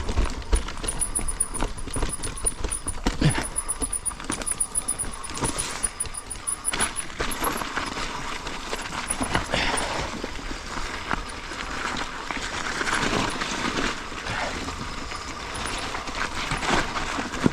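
Mountain bike riding down a steep, muddy trail: tyres on dirt with the chain and frame rattling and knocking over bumps.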